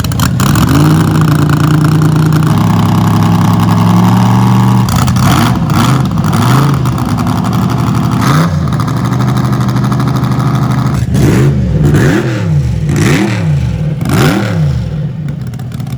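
A car engine running steadily close by, then revved again and again: a string of quick throttle blips, each rising and falling in pitch.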